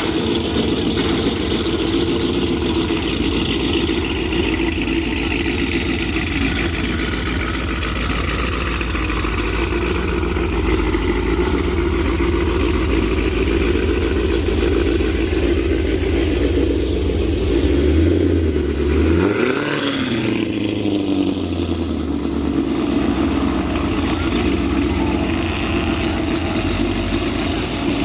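A V8 car engine running at idle with a pulsing, uneven low note, revved once about nineteen seconds in, its pitch climbing and falling back before settling to idle again.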